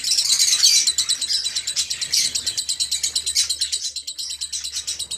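Lovebirds chattering: a fast, continuous run of short, high chirps, many to the second, growing softer near the end.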